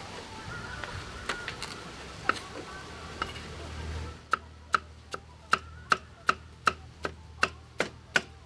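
Knife chopping on a cutting board: a few scattered knocks, then about four seconds in a steady run of sharp chops, about two and a half a second.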